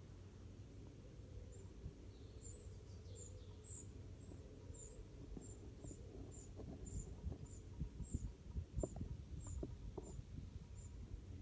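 Wren chicks cheeping faintly: a steady string of short, very high-pitched chirps, about two a second, starting a second or so in. A few low knocks and rustles sound under them near the end.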